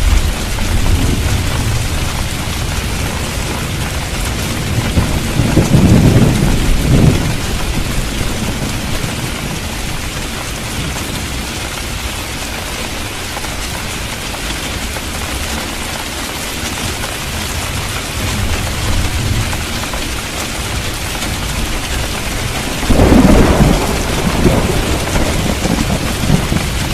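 Steady heavy rain hissing, with thunder rumbling twice: once about six seconds in and again more loudly near the end.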